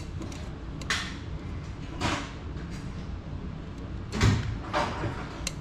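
A few short knocks and scrapes of parts and tools being handled, over a steady low rumble. The loudest is a heavier thump about four seconds in.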